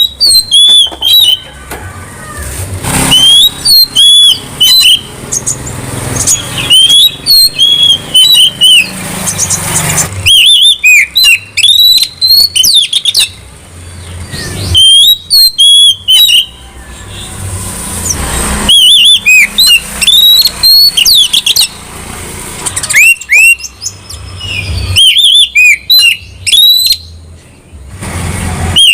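Oriental magpie-robin (kacer) singing loudly and close, in repeated bouts of varied whistled and slurred notes a few seconds long, with short pauses between them. A low rumble is audible in the pauses.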